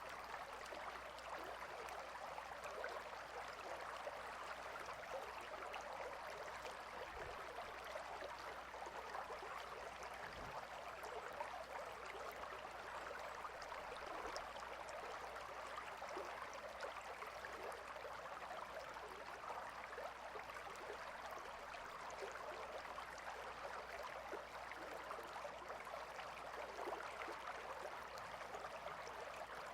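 Gentle river flowing: a steady, unbroken wash of running water.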